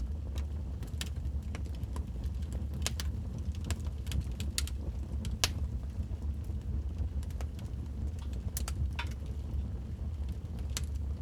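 Wood fire burning in a fireplace: a steady low rumble with irregular sharp crackles and pops, the loudest pop about five seconds in.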